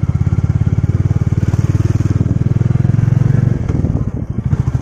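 Royal Enfield Classic 350's single-cylinder engine running on the move, with a fast, even beat of exhaust pulses. The note drops briefly about three and a half seconds in as the throttle eases, then picks up again.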